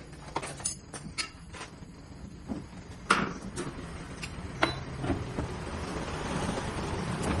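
Scattered sharp knocks and clatter, with the loudest knock about three seconds in and another near the middle. A steady rushing noise builds toward the end.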